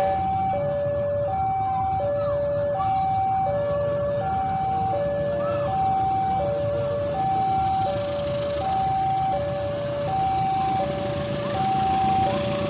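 Railway level-crossing warning alarm sounding, two electronic tones alternating evenly, high and low, over a steady low rumble.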